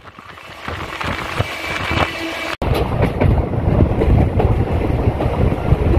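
Express passenger train running at speed: the coach's wheels rumbling and knocking over the rails. The sound swells over the first second, breaks off for an instant about two and a half seconds in, then carries on louder.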